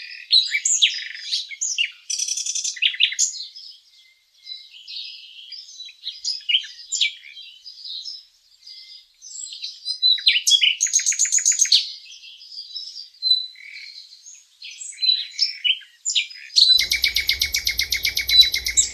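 Small wild birds chirping and calling, with quick high notes and short rapid trills about a third and halfway in, and a longer steady trill near the end.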